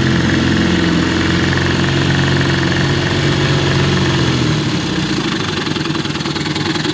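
1953 Elgin 5.5 hp two-cylinder two-stroke outboard motor running steadily; about four and a half seconds in its note drops and the engine slows.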